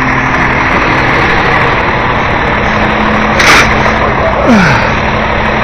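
Rear-loader garbage truck's engine and compactor hydraulics running steadily, with a short hiss of air about three and a half seconds in and a brief creak falling in pitch about a second later.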